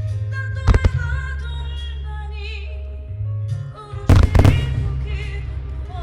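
Firework shells bursting over music played through the show's loudspeakers: a couple of sharp bangs about a second in, then a louder cluster of bursts around four seconds in, while the music carries on with a held bass and a wavering melody.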